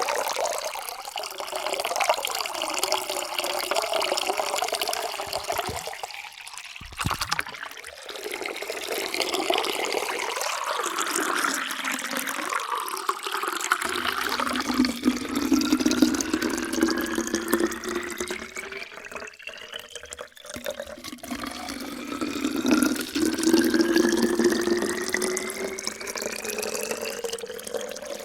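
Water poured in a steady stream into a container, splashing and gurgling, in a few separate pours with short breaks between them. In the later pours, the note of the container climbs steadily in pitch as it fills.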